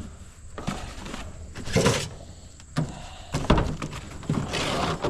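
Wooden beehive equipment being handled: a few knocks and short scrapes as boxes, frames or the queen excluder are moved and set down.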